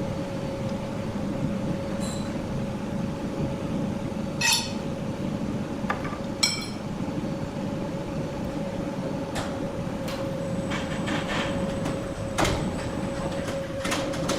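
Sawing machinery running steadily with a constant hum and low rumble, with a few sharp metallic clinks and knocks.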